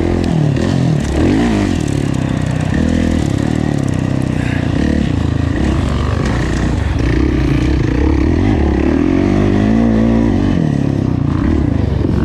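Kawasaki KX450F's single-cylinder four-stroke engine ridden hard on a motocross track, its pitch rising and falling again and again as the throttle is opened and shut.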